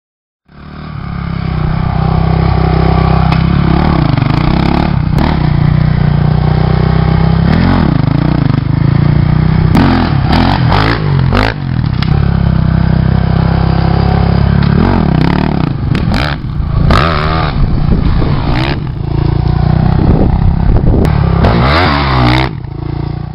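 Motorcycle engine running hard, its pitch rising and falling with the throttle, with sharp clattering knocks now and then, most around ten to twelve seconds in and again near the end.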